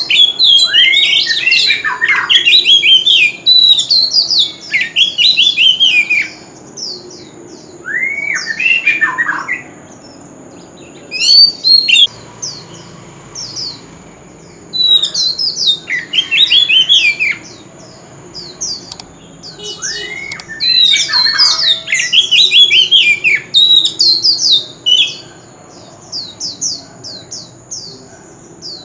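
Oriental magpie-robin singing in bursts of rapid, varied whistled phrases a second or two long, with short pauses between them.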